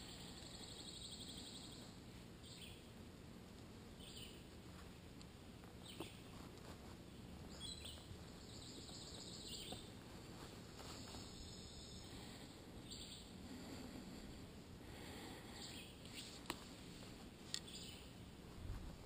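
Faint birds calling in woodland: a short trill, then brief high chirps every second or two, over a low steady rumble, with a few light clicks near the end.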